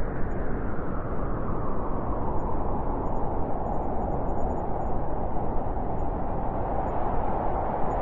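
Blizzard wind howling steadily, a gust whose pitch sinks slowly.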